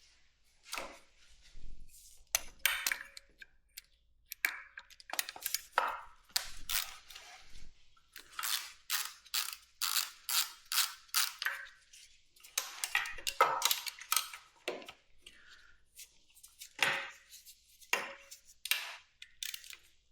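Hand tools and metal motorcycle parts clicking and clinking during disassembly, in irregular clusters of sharp knocks, some with a brief metallic ring.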